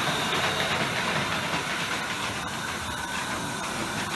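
Steady hiss with faint high, steady whining tones: the running noise of model trains on an exhibition layout.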